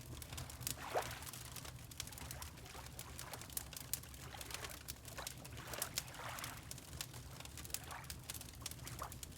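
Gentle water lapping in small splashy swells, over a steady low fire rumble and the scattered sharp pops of a crackling wood fire.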